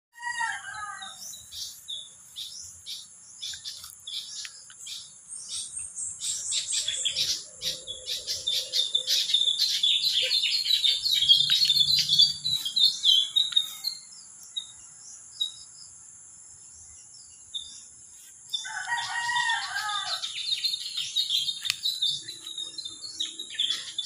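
Several small birds chirping and twittering, rapid and busy, easing to a lull for a few seconds past the middle and then starting again. Twice, at the start and again later, a lower call falls in pitch over about a second.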